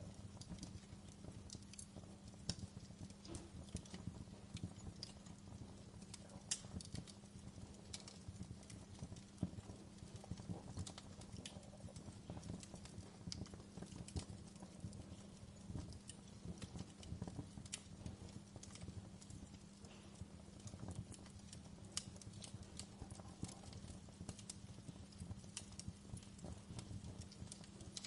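Wood fire crackling in a fireplace, with irregular small snaps and pops over a low steady hum.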